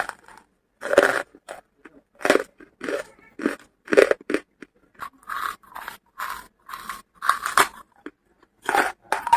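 Pieces of charcoal being bitten and chewed: a string of sharp, dry crunches, about one to two a second.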